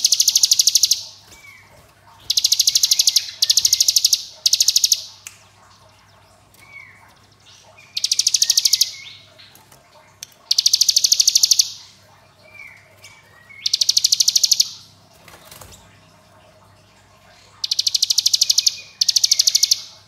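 Ciblek gunung, a prinia, singing its 'ngebren' song: about nine loud, high, dry rattling trills of around a second each, rapid as a machine gun and separated by short pauses, with soft short rising chirps in between.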